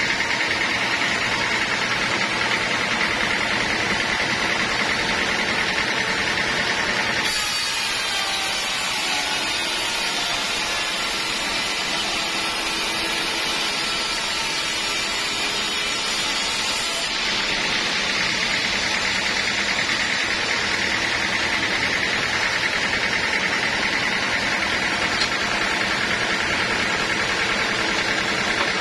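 Sawmill saw running steadily, cutting through teak for about ten seconds in the middle, when the sound turns brighter and hissier, then back to running free.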